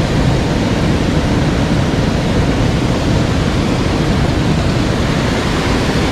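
Rushing water of a mountain stream: a steady, loud noise with no change.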